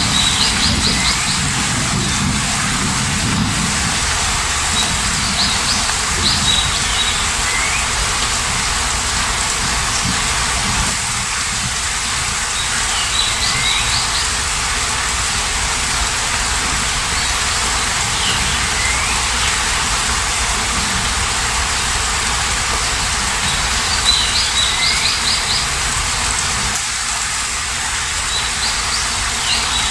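Steady rain falling, with a bird singing a short high phrase, a quick run of notes then a falling chirp, that repeats about every six seconds.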